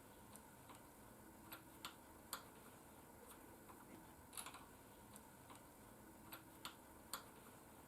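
Faint, irregular small clicks and ticks, about a dozen, over near silence: parts of a handlebar mount being handled and fitted into place.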